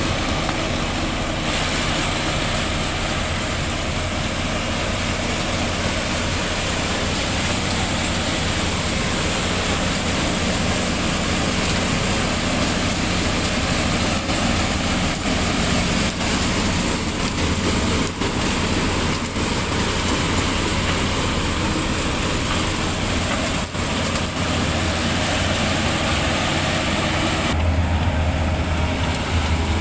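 A sugarcane harvester's engine running steadily under load while it cuts, with a dense hiss from the cutting and chopping gear over a low engine hum. About two seconds before the end the hiss drops away and the engine hum comes forward.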